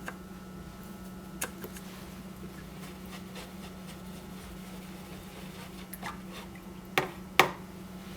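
Small clicks and taps from paint tubes and a palette being handled while watercolour paint is squeezed out. There is one click about a second and a half in and two sharper ones near the end, over a steady low hum.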